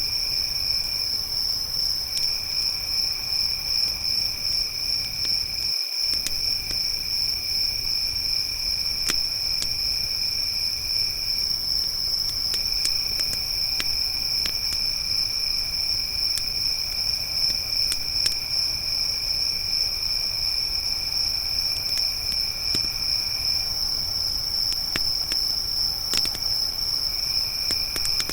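Crickets chirping in a steady, high, continuous trill, with a second, lower insect trill that drops out briefly a few times. Sparse sharp crackles of a wood campfire and a low rumble of the fire come through underneath.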